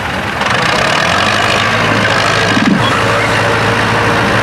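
Tractor engine running steadily, with a wash of mechanical noise over it that grows louder just under half a second in.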